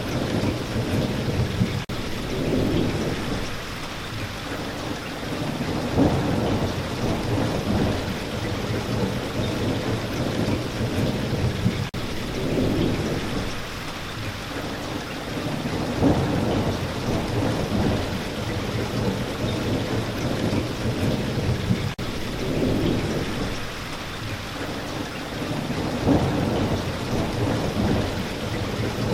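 Steady rain with low rolling thunder. The rumble swells and fades, peaking about every ten seconds.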